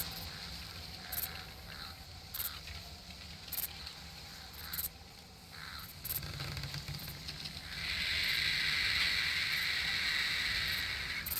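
Summer nature ambience: faint sharp clicks about once every second over a low steady rumble, then, about two-thirds of the way through, a loud steady high-pitched buzz sets in and holds.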